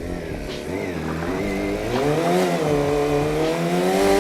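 Motorcycle engine revving during a burnout attempt: the revs climb over the first two seconds, then are held high and steady.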